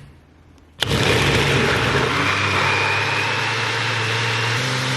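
Countertop blender starting up suddenly about a second in and running steadily, chopping carrots and oranges for juice. Its motor note steps slightly higher near the end.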